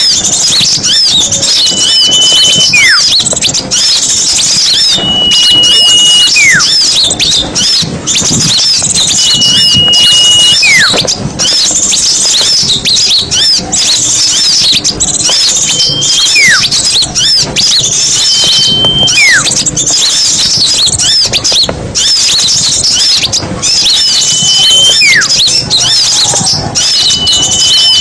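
Bird-lure recording of many small songbirds chattering and twittering together in a dense, high chorus. Every three to four seconds a call repeats over it: a steady high whistle, then a quick falling note.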